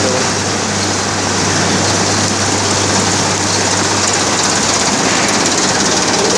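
Loud, steady mechanical rattle and hum of running heavy machinery, with no pauses.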